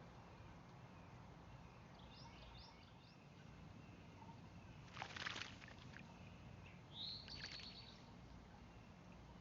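Songbirds calling at a backyard bird bath: a few faint short chirps, then a brief noisy burst about five seconds in and a louder call that rises and then holds its pitch about seven seconds in, over a quiet steady background hum.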